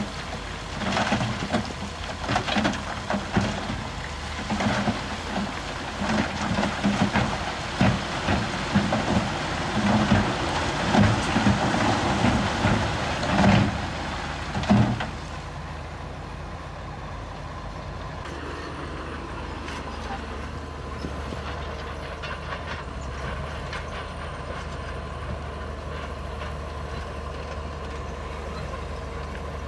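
Heavy diesel construction machinery working stone. For about the first fifteen seconds there are irregular loud clatters and knocks over the engine, then only a steady engine drone.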